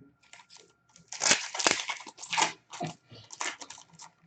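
Plastic or foil wrapper crinkling and tearing as a pack of hockey cards is ripped open: a run of sharp, irregular crackles starting about a second in.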